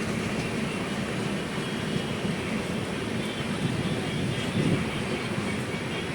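Steady rumble of a moving passenger train heard from inside the coach, running evenly without distinct wheel clicks or squeals.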